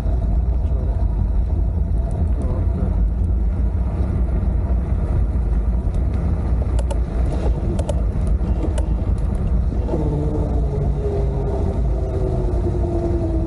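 Wind rushing over the camera microphone on a moving bike, a steady low rumble. A few light clicks come around the middle, and a faint wavering tone comes in for the last few seconds.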